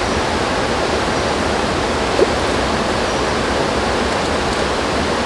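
Mountain river rushing nearby, a steady loud flow of water noise.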